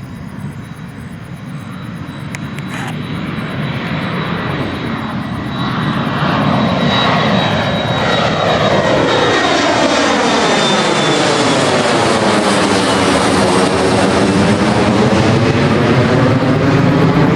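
United Embraer E175 regional jet's twin turbofan engines on takeoff, the roar building over the first few seconds and then holding loud, with a sweeping whooshing quality as the jet passes by.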